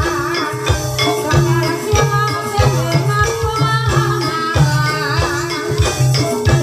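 Live Javanese gamelan-style accompaniment for an ebeg hobby-horse dance: deep drum strokes in a steady rhythm under repeated tuned metallic notes, with a wavering vocal melody over the top.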